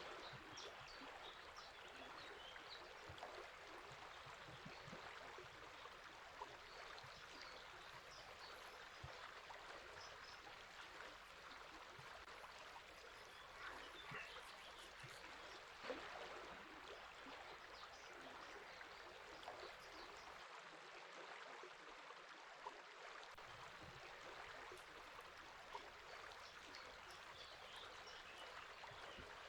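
A river flowing steadily, faint, with small birds calling and singing faintly now and then over the water.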